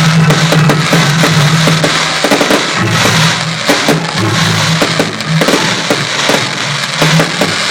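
Fireworks bursting and crackling in many quick sharp bangs, heard over music with a steady low bass line.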